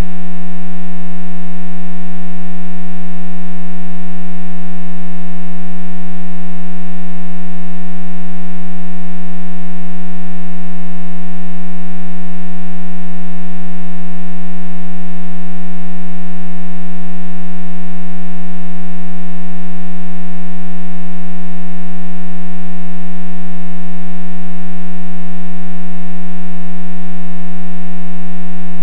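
A loud, steady, unchanging hum with a buzzing series of overtones.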